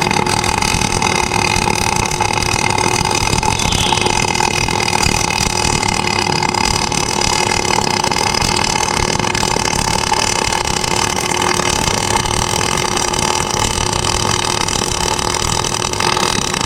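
Steady, loud mechanical running noise with a constant hum that holds unchanged throughout.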